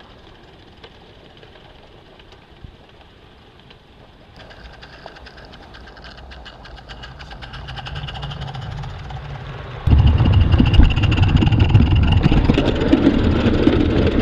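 Small live-steam garden-railway train running, faint at first and then growing louder with rapid clicking. About ten seconds in, a sudden loud rumble takes over.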